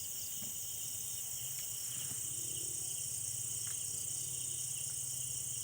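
Night insect chorus: crickets trilling steadily at a high pitch, with a faint low hum underneath.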